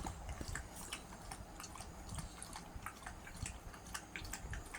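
Pomeranian puppy lapping milk: a quick, irregular run of small wet clicks and smacks.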